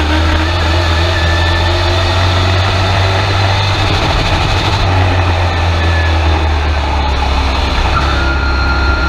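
Race truck engine running steadily, heard from inside the cab, with a strong low drone.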